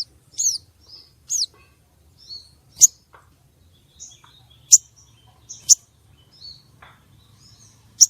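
Female sogon calling: a series of high, short chirps and sharp chips about once a second, the first two about half a second and a second and a half in sliding down in pitch. The loudest are sharp chips about three, five, six and eight seconds in.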